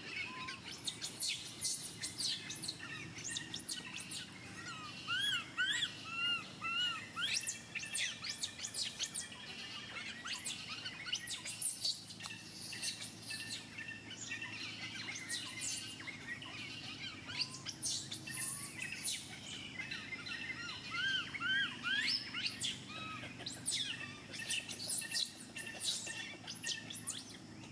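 Birds chirping and calling continuously, with many quick high chirps. Two runs of short arched whistled notes come about five seconds in and again about twenty seconds in.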